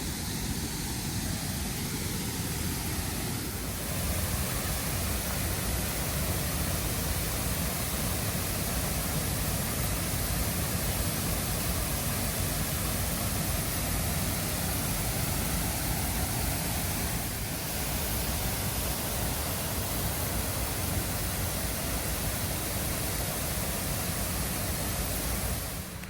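Water pouring over Jägala Waterfall: a steady, full rushing noise with no break, stepping slightly louder about four seconds in and a little quieter again near the end.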